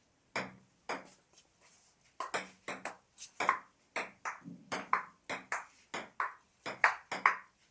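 Table tennis rally: the ball clicking off bats and table in turn. Two strokes, a short pause, then a quick, even exchange of about three hits a second that stops near the end when the point is won.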